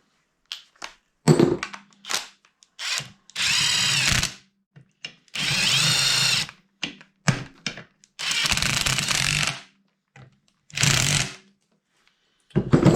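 Power drill run in four short bursts, its whine rising as it spins up each time, with clicks and knocks of metal handling between the bursts.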